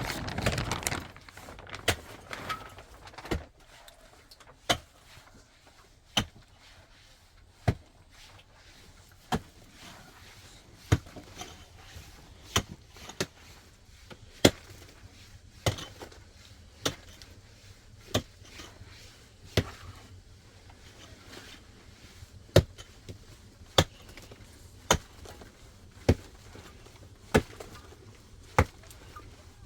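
Wood being chopped: about twenty sharp single blows, one every second and a half or so, coming slightly faster toward the end. A louder rustling, scraping burst comes in the first second.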